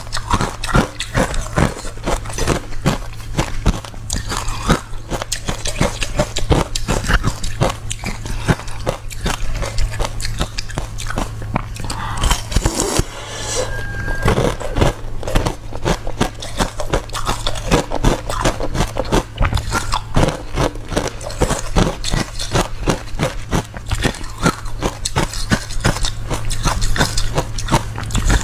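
A person chewing and crunching ice cubes close to the microphone, with rapid, irregular crunches and a steady low hum underneath.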